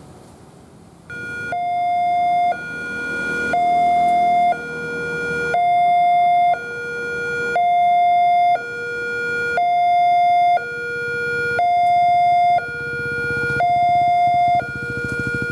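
Railway level-crossing warning alarm sounding, an electronic two-tone signal alternating between a higher and a lower pitch about once a second, warning that a train is approaching. It starts about a second in.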